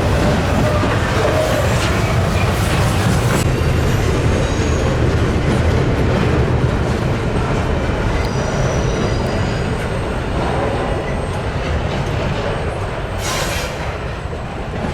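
Freight train's cars rolling by on the rails: a steady low rumble of wheels on track with faint high wheel squeals, easing off slightly near the end.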